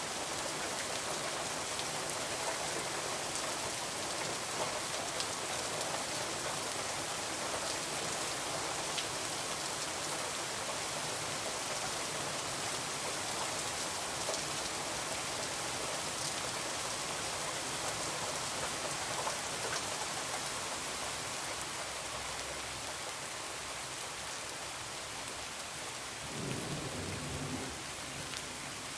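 Heavy rain falling steadily, with scattered sharp ticks through it, and a low rumble of thunder lasting about two seconds near the end.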